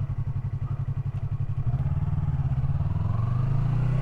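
Yamaha R3's parallel-twin engine pulsing evenly at low revs, then rising steadily in pitch over the last couple of seconds as the bike speeds up.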